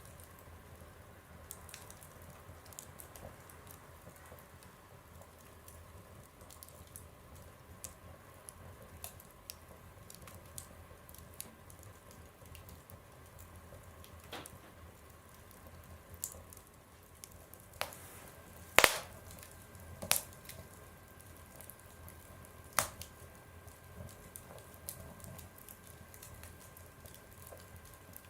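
Wood fire burning in a stove, crackling with constant faint ticks and a few sharp, louder pops in the second half, the loudest about two-thirds of the way in.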